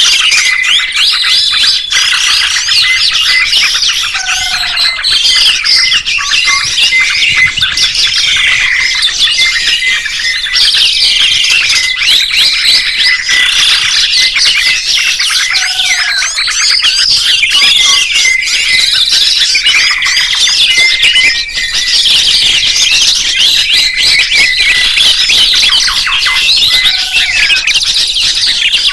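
Songbirds chirping and trilling in a dense, continuous chorus of overlapping high calls, with no pauses. The same passage seems to repeat about every eleven seconds, as in a looped recording.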